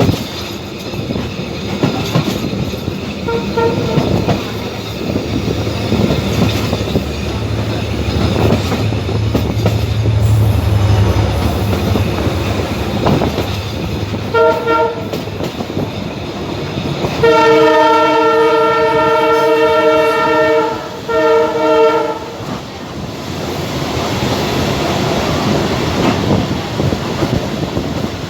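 Passenger train running, heard from on board, with steady rumble and clatter of the wheels on the rails. About halfway through, a multi-tone train horn gives a short blast, then a long blast of about three seconds, then another short blast.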